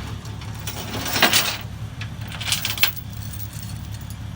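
Vehicle engine idling steadily, with two short bouts of metallic clinking and rattling, about a second in and again near three seconds.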